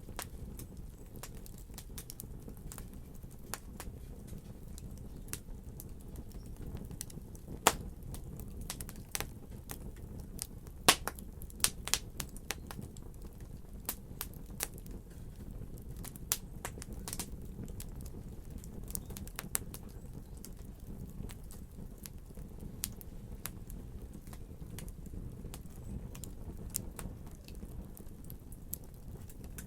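Wood fire crackling: irregular sharp snaps and pops over a low steady rumble, busiest and loudest a third of the way through.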